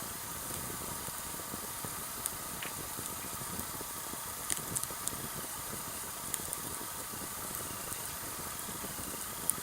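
Sawtooth oak (kunugi) firewood burning in a campfire: a steady hiss of flames with a few sharp crackles and pops scattered through.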